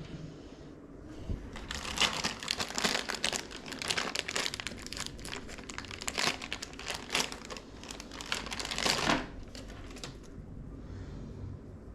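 Packaging crinkling and rustling as it is handled, a dense run of crackles that starts about a second and a half in and stops about nine seconds in.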